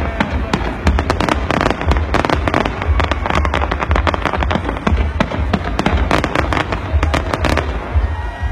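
Fireworks display going off continuously: dense, rapid crackling reports over constant deep booms, with a few whistling glides near the end.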